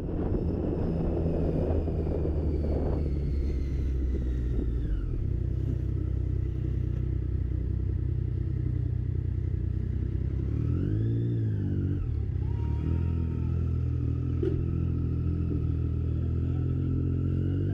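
Motorcycle engine running steadily while riding along. Its note shifts a few seconds in, then rises and falls briefly about eleven seconds in.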